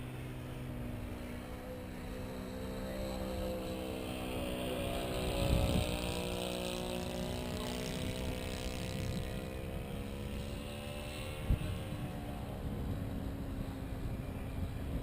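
HobbyKing 1875mm B-17 radio-controlled model's electric motors and propellers flying overhead: a steady droning whine that swells and bends in pitch as the plane passes, about four to nine seconds in, then eases off. Wind buffets the microphone throughout, with a couple of sharp gusts.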